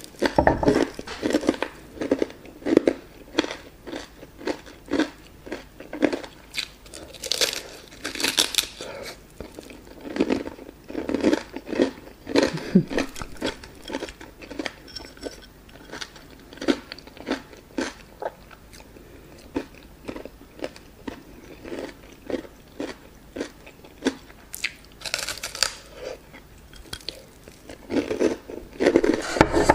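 Close-miked chewing and biting of a crispy breaded fried chicken drumstick: a steady run of chews about twice a second, with louder crunchy bites about seven to nine seconds in and again near the end.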